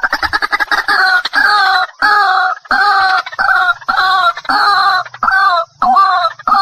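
White-breasted waterhen (ruak-ruak) calling: a quick run of short notes at the start, then a loud, repeated "kru-ak" call of about two notes a second.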